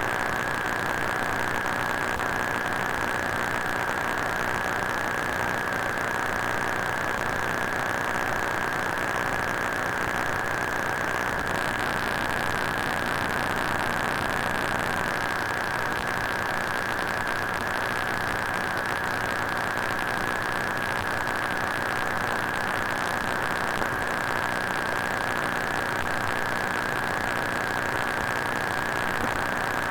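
Broken-electronics sound effect: steady static hiss with a constant high-pitched electrical whine and a faint low buzz underneath, unchanging throughout.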